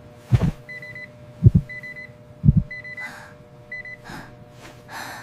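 Cartoon sound effect of a heart monitor: four short high electronic beeps about a second apart, with low double heartbeat thumps in the first half and a steady hum beneath. Soft breath-like puffs come in the second half.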